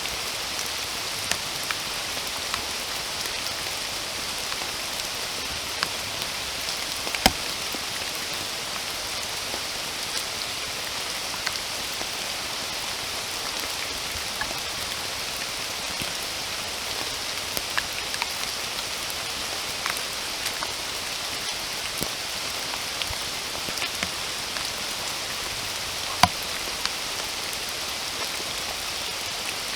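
Steady rain falling, with the separate ticks of single drops striking close by scattered through it. Two drop hits stand out louder, one at about seven seconds and one near the end.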